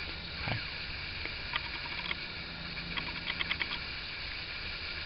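Light scattered clicks and taps of glazing work as linseed putty is worked into a window frame, including a quick cluster of ticks past the middle, over a steady background hiss.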